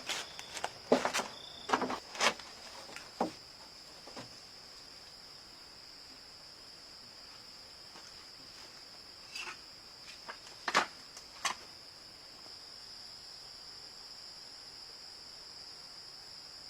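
Insects chirring in one steady, high-pitched drone, with several sharp knocks or clicks: a cluster in the first few seconds and a few more about ten seconds in.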